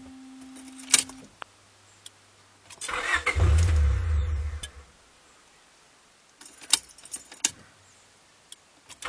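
A fifth-generation Honda Prelude 2.0's starter cranks the engine for about two seconds, and the engine does not catch. A click comes from the key about a second in, and a few more clicks follow later. This is the car's intermittent no-start.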